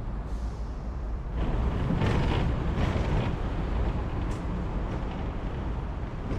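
Urban traffic and vehicle noise: a steady low rumble with road hiss, swelling louder about a second and a half in.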